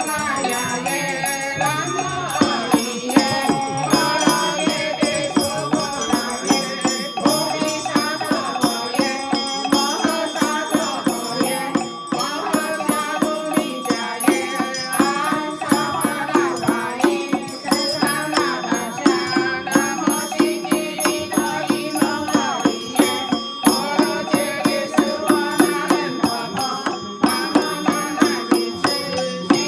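Ritual sutra chanting, sung in a wavering melodic line over a steady percussion beat of about two strokes a second.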